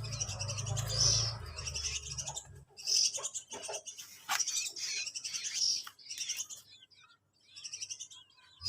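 Young hand-reared songbirds chirping repeatedly in quick runs of high notes, with short pauses between runs. A low hum underlies the first few seconds and then stops.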